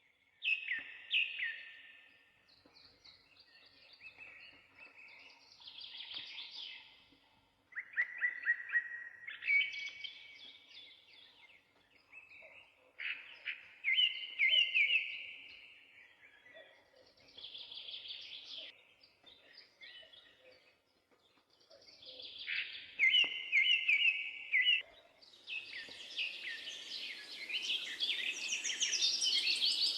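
Songbirds singing short phrases of quick repeated notes every few seconds. In the last few seconds the song grows fuller, with a steady hiss joining in.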